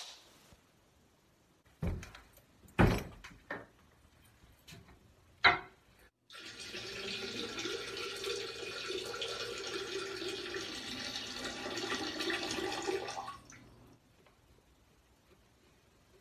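A few scattered knocks and thuds, then about seven seconds of steady water splashing into a toilet bowl, which stops abruptly.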